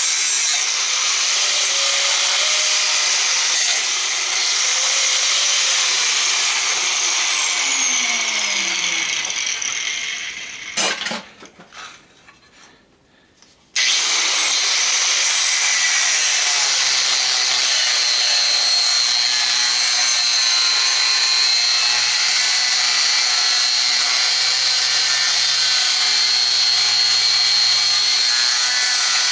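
Power tool with a cutting disc cutting through a metal spring: a loud, steady grinding hiss with a thin high whine. It winds down about ten seconds in, gives a short burst, falls quiet for about two seconds, then cuts steadily again.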